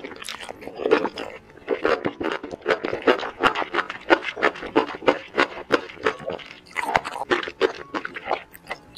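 Close-miked chewing of spicy sauce-coated enoki mushrooms: a dense, irregular run of short mouth sounds.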